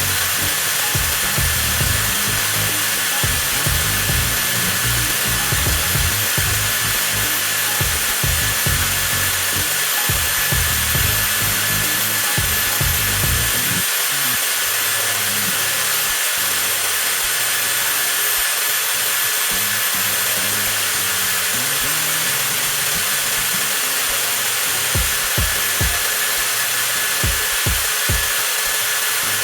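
A 20V cordless angle grinder motor running steadily with no load, a constant high whine. It is being run continuously on a 4 Ah lithium-ion battery to see how long the battery lasts.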